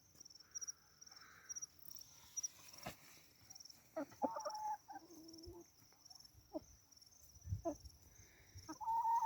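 Chickens clucking softly in short, scattered calls, with a faint, evenly repeated high chirping behind them.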